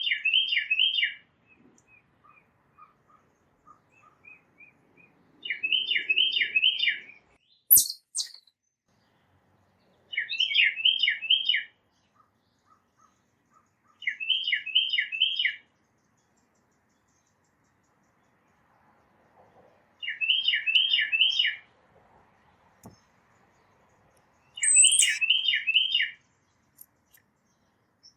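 A songbird singing a repeated phrase of four or five quick, clear notes about six times, with pauses between. Fainter short call notes come in between the phrases, and there is one sharp click about eight seconds in.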